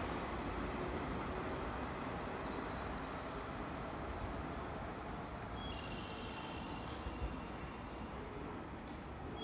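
Rumble of a yellow local electric train pulling away, fading slowly as it runs off into the distance. A faint high two-note tone sounds for about a second, about six seconds in.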